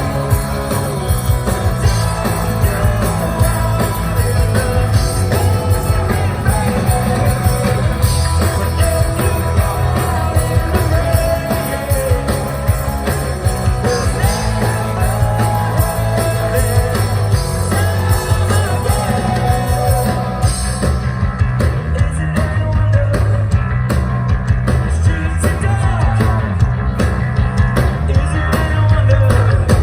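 Live rock music: a band playing with guitar and strong sustained low bass notes, the top end thinning out about two-thirds of the way in.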